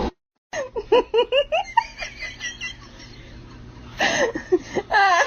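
High-pitched laughter: a quick run of short rising 'ha' notes about half a second in, trailing off after about two seconds, then a second burst of laughing near the end.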